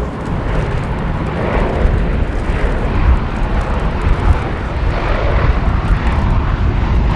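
A B-17 Flying Fortress's four Wright Cyclone nine-cylinder radial engines droning steadily as the bomber flies in on approach to land.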